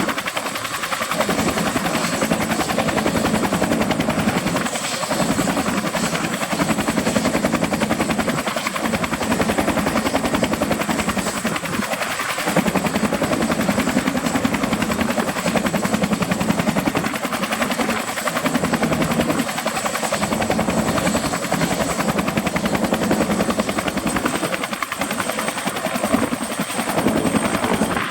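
Bell 212 twin-turbine helicopter running steadily: its Pratt & Whitney PT6T Twin-Pac engines and two-blade rotor make a dense, loud noise with a thin high whine held throughout.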